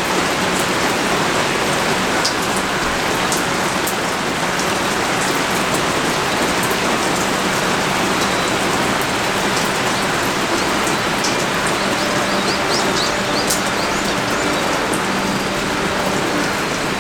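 Pouring rain falling steadily, with sharp ticks of single drops landing close by now and then.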